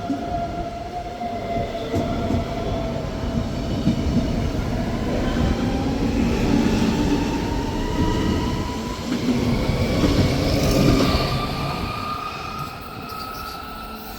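Electric train passing, with a rumble of wheels and a motor whine that rises slowly in pitch. It swells to its loudest past the middle, then fades away near the end.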